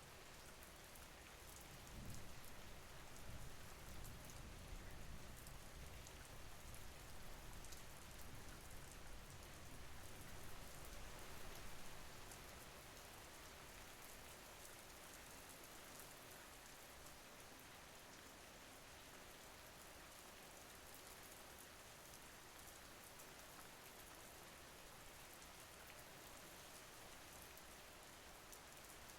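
Faint, steady rain falling, with fine patter of drops. A low rumble sits under it from about two seconds in until about twelve seconds.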